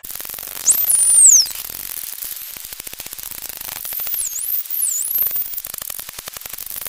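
Dolphin whistles over a rapid run of echolocation clicks. Very high whistles sweep down and back up about a second in and twice more around four to five seconds, over a steady hiss.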